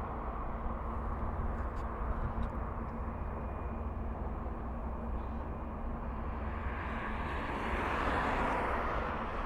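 Outdoor wind rumble on the microphone with a steady background of passing traffic; near the end a vehicle passes, its noise swelling and then fading.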